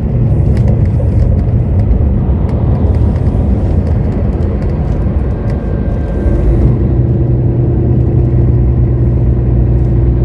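Heavy goods lorry heard from inside its cab: a steady low rumble of diesel engine and road noise as it slows. About six seconds in, the engine note settles into a steadier, more even drone.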